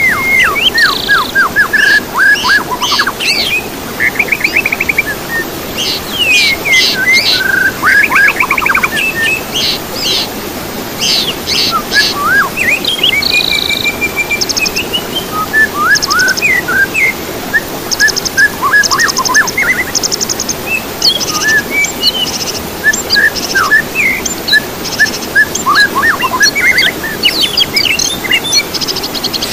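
Several songbirds singing and calling at once, in a mix of rapid trills, sweeping whistled notes and short sharp chirps, over a steady background hiss.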